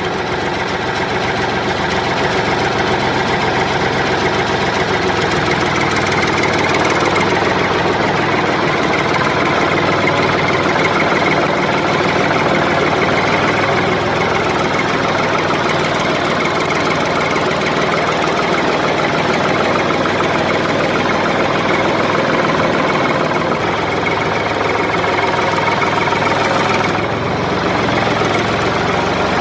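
Toy mini tractor's engine sound, running steadily like an idling tractor engine.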